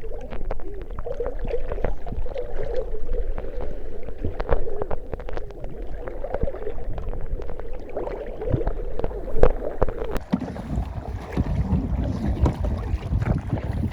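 Canoe on the move: water splashing and lapping at the hull, with many small irregular knocks and clicks. Low rumbling noise rises in the last few seconds.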